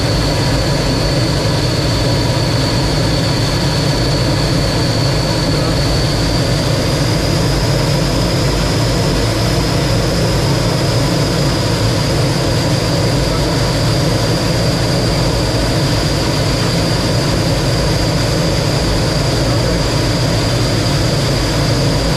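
T-33 jet trainer's turbojet engine and airflow in flight, heard from the cockpit: a steady loud rush with a high whine that rises slightly in pitch about six seconds in.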